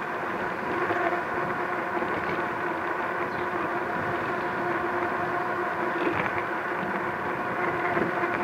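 Electric fat-tire bike in motion: a steady whine held at one pitch, with overtones, over a rushing noise of tyres and wind.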